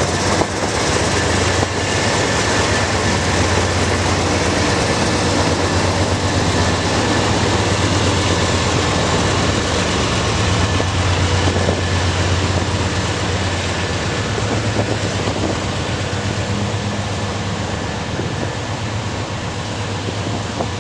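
A train passing close by: a loud, steady rumble of wheels on rail with a low hum beneath. It eases off gradually over the last several seconds.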